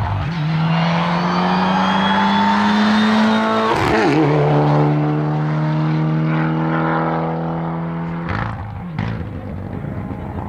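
A hillclimb race car's engine is accelerating hard at full throttle, its pitch climbing through one gear. About four seconds in there is a quick upshift, and it pulls up through the next gear. Near the end it fades away, with a couple of sharp cracks.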